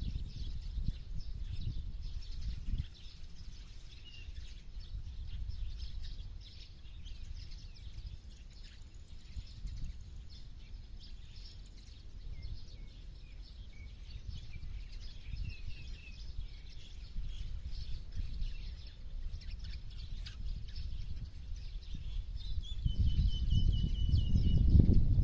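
Small birds chirping with short, scattered high calls, and one longer call that falls slightly in pitch near the end. A low, uneven rumble runs underneath and grows louder in the last few seconds.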